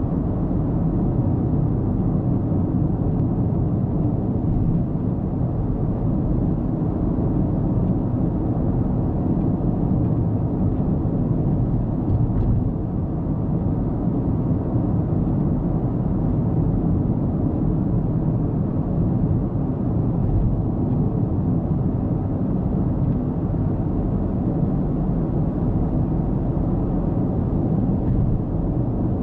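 A car's steady road and engine noise while cruising, a constant low rumble of tyres and engine with no change in speed.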